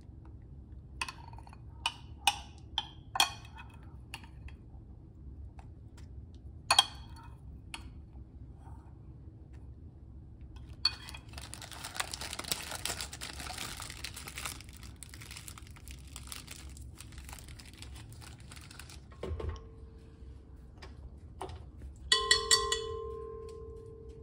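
Metal spoon clinking and scraping against glass while blueberry compote is spooned into a piping bag, then several seconds of plastic piping bag crinkling as it is handled. Near the end, utensils strike with two ringing clinks that fade slowly.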